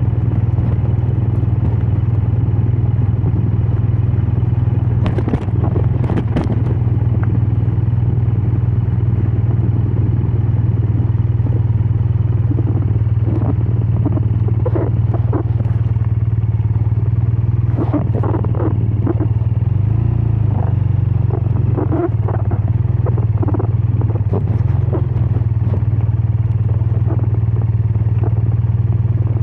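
BMW R12 nineT's boxer-twin engine and exhaust running steadily at a cruise while riding, with a few brief clicks and knocks mixed in.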